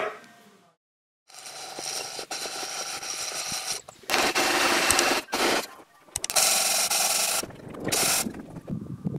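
Rough rasping and scraping of tools working timber, in several short stretches that stop and start abruptly, after one brief sharp sound at the very start.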